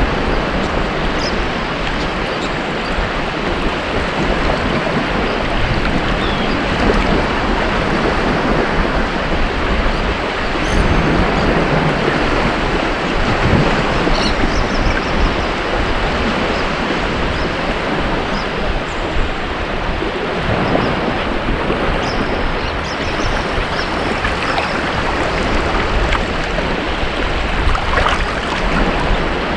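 Ocean surf breaking and washing up a beach: a continuous rush of water that swells and eases every few seconds as the waves come in.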